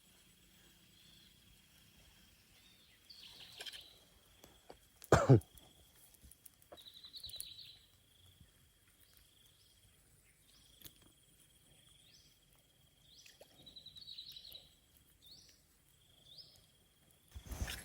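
Birds calling outdoors: repeated short rising chirps and a few brief trills over a steady high-pitched drone. A loud thump about five seconds in and another near the end.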